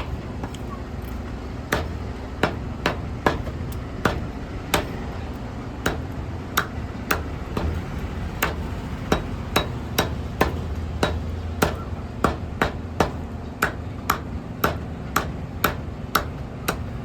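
Cleaver chopping chicken on a chopping block: a long series of sharp, hard chops at an uneven pace of about two a second, over a steady low hum.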